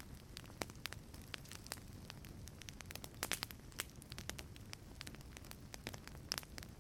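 Wood fire crackling in a fireplace: irregular sharp pops and snaps, several a second, over a low, steady rumble of the burning.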